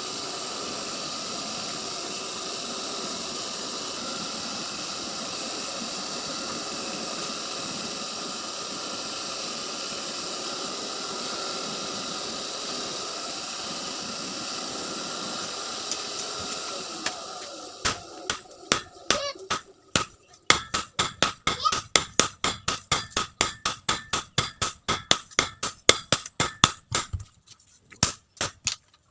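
A steady machine noise runs for about the first seventeen seconds, then fades. It is followed by a fast run of blacksmith's hammer blows on steel over an anvil, about three or four a second, each ringing high, until they stop near the end.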